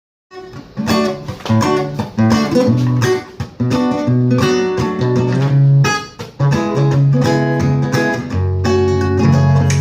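Acoustic guitar strummed in a rhythmic chord pattern, with brief pauses between phrases.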